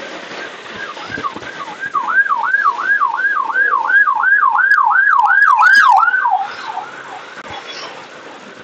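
Electronic siren in fast yelp mode, its pitch sweeping up and down nearly four times a second. It grows louder about two seconds in and cuts off after about six seconds.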